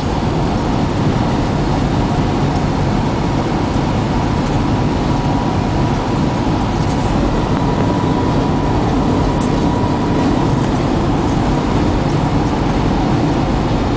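2000 GMC Sierra 3500 boom truck with its 7.4-litre General Motors V8, heard from inside the cab while cruising at highway speed: steady engine and road noise from the 19.5-inch commercial tires, with a faint steady whine.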